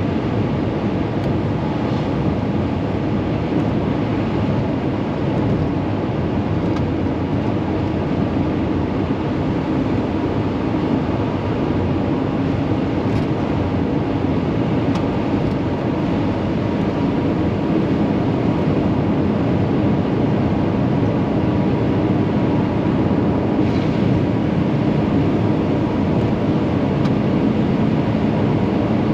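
VW Vanagon driving at a steady speed: a steady engine drone mixed with road and tyre noise.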